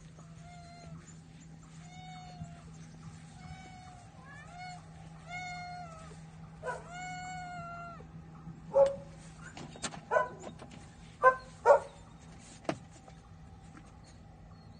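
A cat meowing over and over: about six drawn-out meows with pitch bending up and down in the first half, then several shorter, louder calls in the second half, with a few sharp clicks and a steady low hum underneath.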